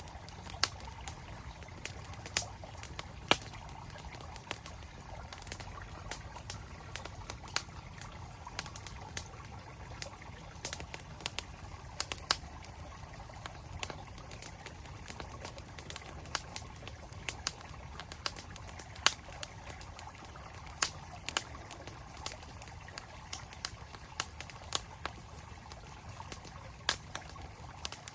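Wood campfire crackling, with frequent irregular sharp pops, over the steady rush of a flowing mountain stream.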